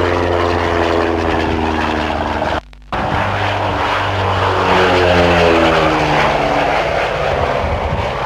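Propeller aircraft engine passing by, its pitch falling as it goes past. A brief break about two and a half seconds in, then another pass with the pitch rising and then falling.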